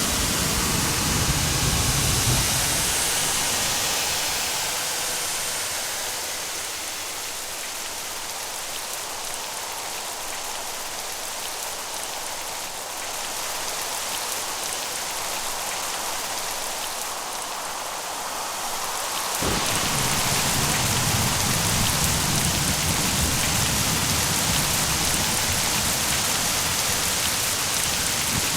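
Steady rain falling on a surface, with the tail of a low thunder rumble dying away in the first couple of seconds. About nineteen seconds in, the rain abruptly turns louder and fuller and stays that way.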